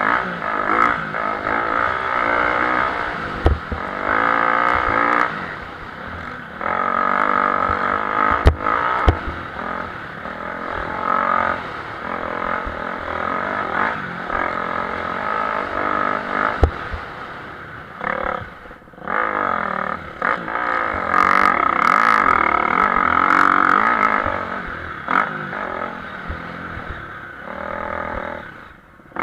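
Several motocross bikes racing, engines revving up and falling back again and again, with a few sharp knocks.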